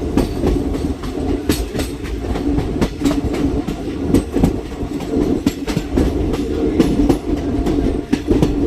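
Passenger train running along the track: a steady rumble of the carriage, with the wheels clacking over the rail joints again and again.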